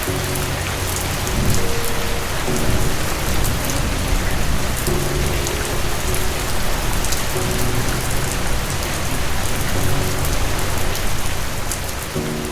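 Steady heavy rain with a low roll of thunder swelling up about one and a half seconds in. Soft sustained low music notes, likely piano, sound underneath.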